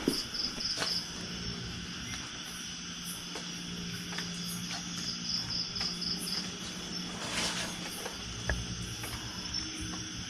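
Night insects chirping, cricket-like, in repeated high pulsed trills that come in short bursts every few seconds over a steady chorus. A few faint clicks are heard now and then.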